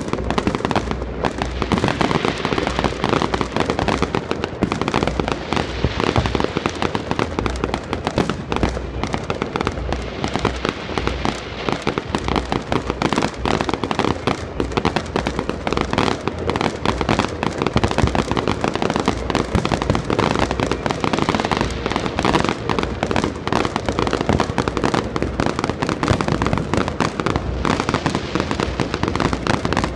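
Fireworks display: shells bursting and crackling in a continuous barrage, many bangs a second with no pause.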